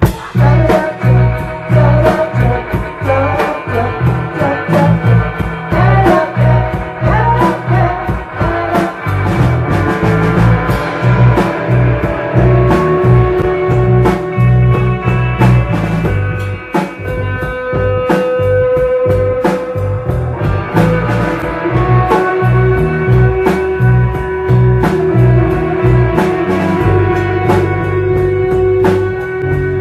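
Live rock band playing a bluesy, psychedelic rock number with guitar and drums over a heavy, rhythmic low end. The band comes in abruptly from a pause at the start.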